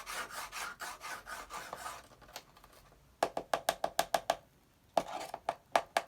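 Cockatiel scraping and pecking at a cardboard box: a run of rasping strokes, about five a second, then after a short pause two quick clusters of sharp taps.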